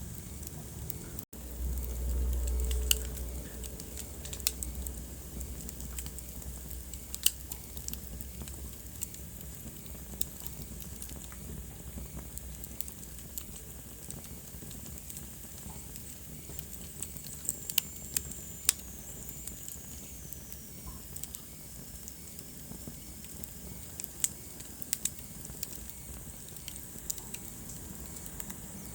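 Wood fire burning in a fireplace: a steady hiss with scattered sharp pops and snaps. About two seconds in, a low rumble lasts a second or two. Later a faint high whistle glides down in pitch.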